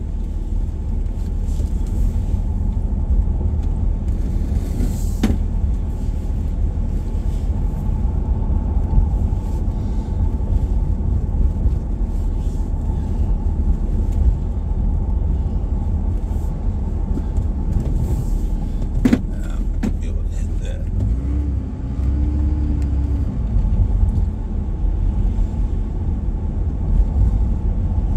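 Steady low rumble of a vehicle driving, heard from inside the cabin, with sharp knocks about five seconds in and again past the middle.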